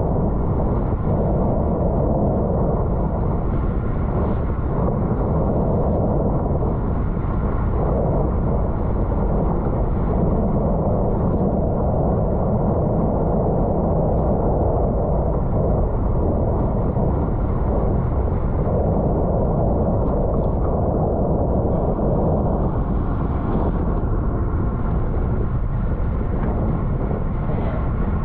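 Wind buffeting the microphone of a camera riding on a racing bicycle at speed: a steady loud rumble, with the hiss of tyres on a wet road underneath.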